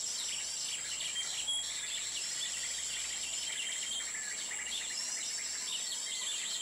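Small birds, prinias, chirping in quick runs of short high notes, with a brief held whistle now and then. A steady high-pitched insect drone runs underneath.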